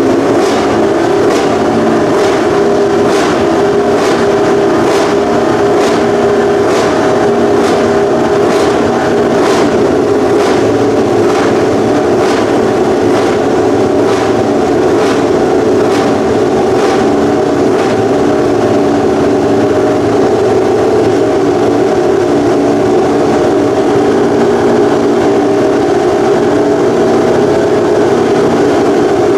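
Honda RC213V MotoGP bike's V4 racing engine running at a steady, loud idle through its exhaust, with a regular clicking about once a second during the first half.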